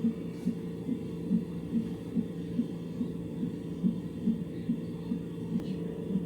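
Fetal heart monitor's loudspeaker playing an unborn baby's heartbeat: an even pulse of about two and a half beats a second, around 140 a minute, the normal rate for a baby's heart in the womb. A constant hum runs underneath.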